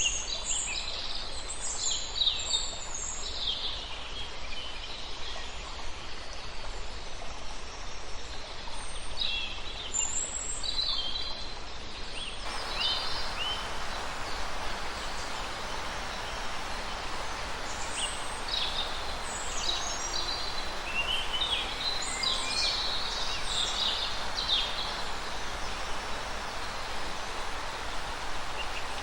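Small birds chirping and trilling in quick, scattered calls over a steady background hiss. About twelve seconds in, the hiss changes abruptly and becomes stronger.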